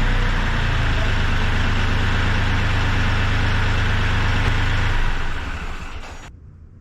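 Kioti CK3510 compact tractor's three-cylinder diesel engine running steadily, then winding down and stopping about five seconds in. The remaining hiss cuts off abruptly near the end.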